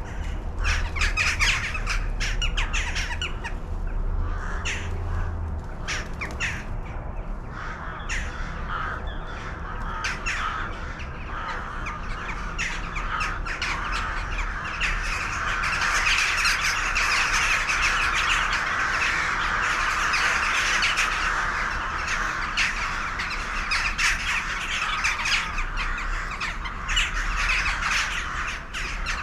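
A flock of birds calling, many calls overlapping, growing into a dense chorus about halfway through before thinning again.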